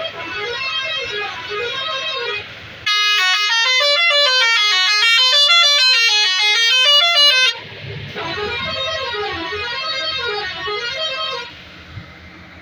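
A truck's musical horn playing a stepping, up-and-down tune in three phrases, the middle one loudest. It cuts off near the end, leaving the truck's low running noise.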